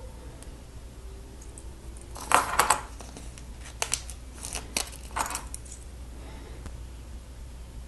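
Hands working small plastic Lego parts and a sticker sheet: a quick cluster of light clicks and crinkling about two and a half seconds in, then a few more sharp plastic clicks.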